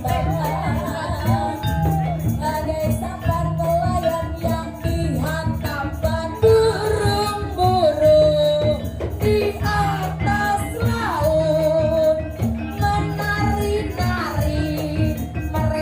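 Live band music with a singer whose voice slides between notes, over a steady drum beat.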